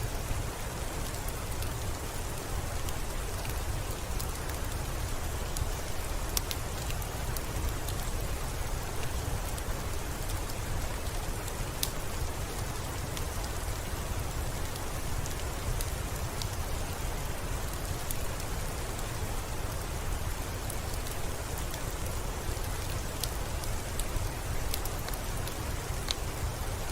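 Steady rainfall, a continuous hiss with a deep low rumble underneath, dotted with scattered sharp ticks.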